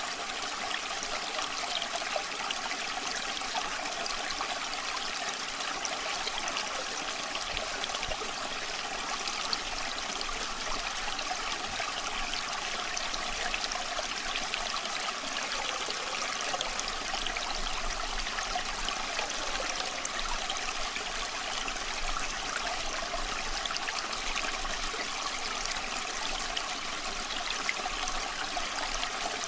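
Small stream flowing and trickling, a steady, unbroken water sound.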